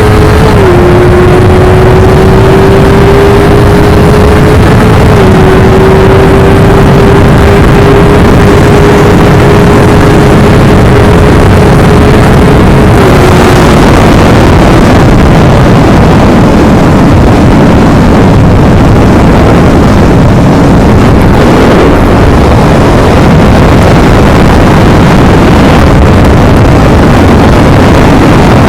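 Yamaha R25's 250 cc parallel-twin engine running on its stock exhaust under way. Its steady note drops twice in the first few seconds, as on upshifts, then holds level and fades out about halfway under a loud, dense rumble.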